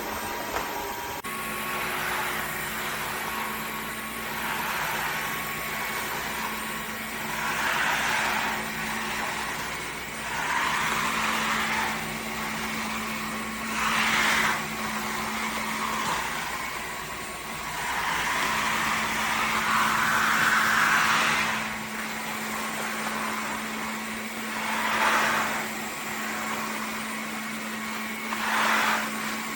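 Dreame H12S wet-dry vacuum mop running with a steady motor hum, its rushing suction noise swelling louder every few seconds.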